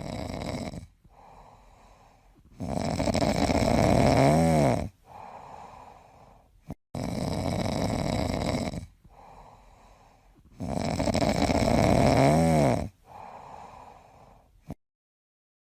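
Loud snoring: a long rasping breath about every four seconds, each with a quieter breath between. Some of the loud breaths end in a falling pitch glide. It cuts off abruptly about a second before the end.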